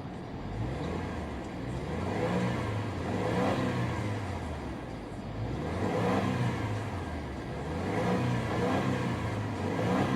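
The 2019 Subaru Ascent's 2.4-litre turbocharged flat-four engine revved several times, its pitch rising and falling in repeated waves.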